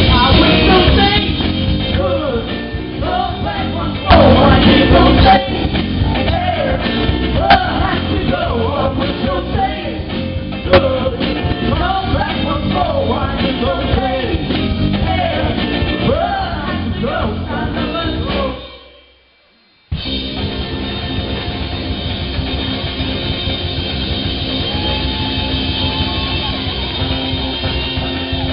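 Live rock band playing: a male singer over electric guitar, bass guitar and drum kit. The sound cuts out completely for about a second two-thirds of the way through, then the band comes back playing without the voice.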